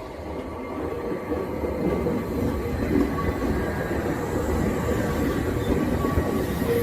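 Kintetsu electric train running past, the rumble of its wheels on the rails growing louder over the first two seconds and then holding steady, with a few faint steady whining tones above it.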